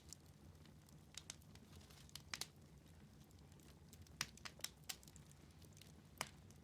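Wood fire in a fireplace crackling faintly, with about ten sharp, irregular pops and snaps over a low steady hum.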